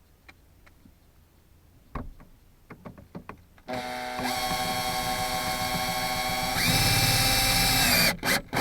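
A few small clicks and knocks of handling, then a power drill driving screws through a scanner mounting bracket into a plastic dash vent: the motor runs steadily for about three seconds, then changes pitch and gets louder for about a second and a half before stopping, with a couple of short bursts just after.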